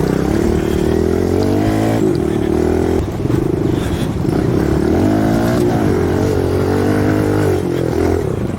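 Dirt bike engine running under throttle while riding, its pitch climbing and dropping several times as the throttle opens and closes.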